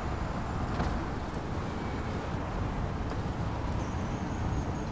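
Small car's engine idling steadily, a low even rumble.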